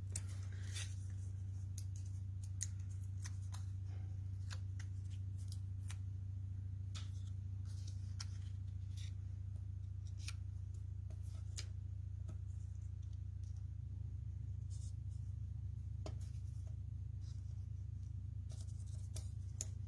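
Scattered faint clicks and rustles of paper and cardstock being handled and pressed down, over a steady low electrical hum.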